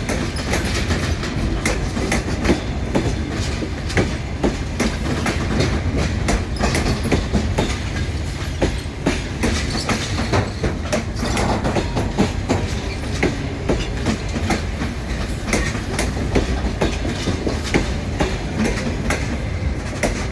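Passenger train coaches rolling past, their wheels clicking over the rail joints over a steady low rumble.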